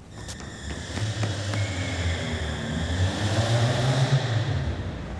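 A car engine rumbling and growing louder as the car approaches, loudest about three to four seconds in, then easing off a little.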